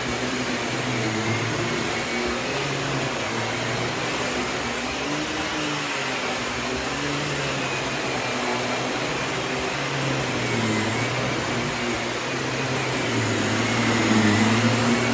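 Miele S194 Quickstep stick vacuum running with its power head attached, a steady motor hum whose pitch wavers slightly as it is worked. Very quiet for a vacuum.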